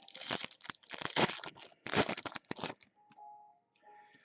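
A trading card pack wrapper being torn open and crinkled: a run of quick, irregular ripping and crackling over about three seconds that dies away near the end.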